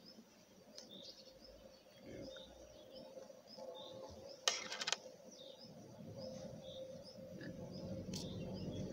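Small birds chirping again and again in the background over a faint steady hum. About halfway through there is a quick rattle of a few sharp clicks, and a low rumble builds toward the end.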